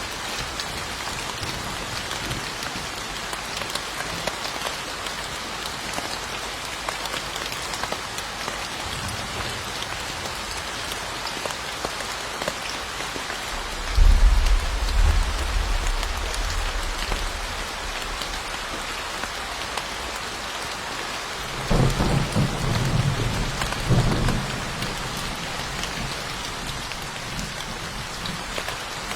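Steady heavy rain falling, with two low rumbles of thunder, one about halfway through and a longer one near three-quarters of the way through.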